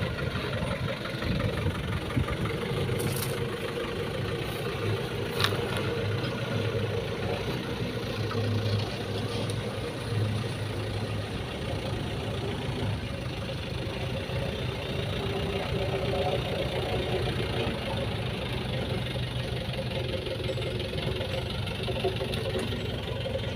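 Excavator's diesel engine running steadily while it works loading soil into a truck, with a brief sharp metallic click about five seconds in.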